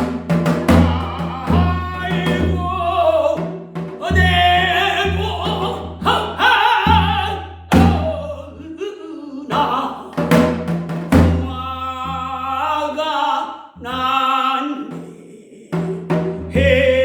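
Korean folk singing in pansori style: a single voice holding long, wavering, bending notes over a steady drum accompaniment struck about once a second.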